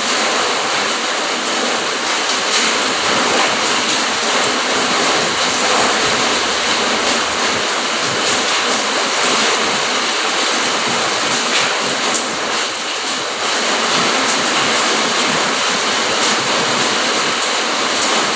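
Rain falling steadily: a dense, even hiss with many sharper individual drop hits scattered through it.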